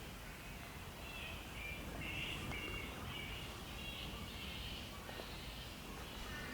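Faint bird chirps, a run of short high notes repeated over a steady low background rumble.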